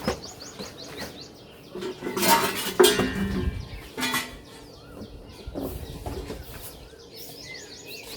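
A few knocks and clatters of hard objects being handled, loudest around two to four seconds in, with small birds chirping near the start and again near the end.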